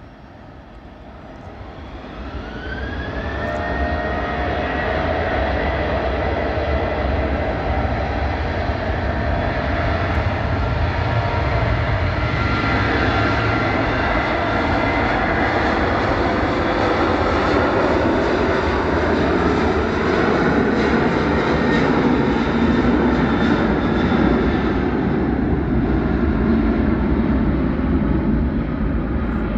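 Boeing 737's twin turbofan engines spooling up to takeoff thrust: a rising whine and climbing loudness over the first few seconds, then steady, loud jet engine noise with a deep rumble as the airliner makes its takeoff run.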